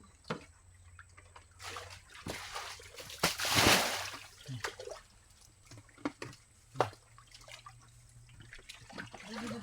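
Shallow muddy water splashing and sloshing as it is stirred by hand while fish are chased, with short splashes throughout and a louder, longer splash about three and a half seconds in.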